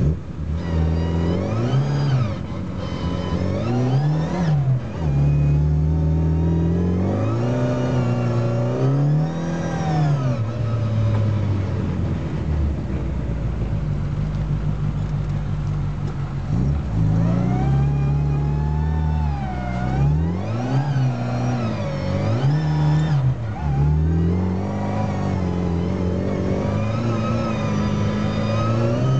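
Car engine heard from inside the cabin while driving on snow, its pitch rising under acceleration and dropping back several times, with a steadier stretch of cruising in the middle, over a constant rumble of tyre and road noise.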